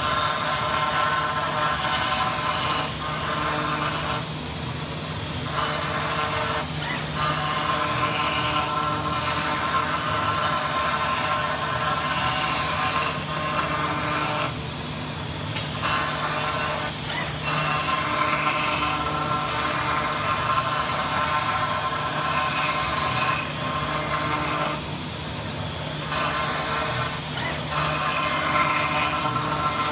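CNC machine running a cut on a metal part: a steady hiss with several steady high tones. The sound changes briefly about every ten seconds as the machining cycle repeats.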